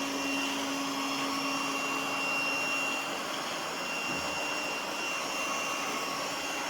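Lefant M1 robot vacuum running steadily: an even suction-fan rush with a high whine over it. A low hum drops out about halfway through.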